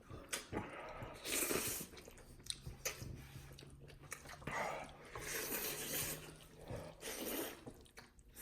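Wet, noisy slurping and chewing of cheesy ramen noodles, in several slurps a second or so long with smacking mouth clicks between them.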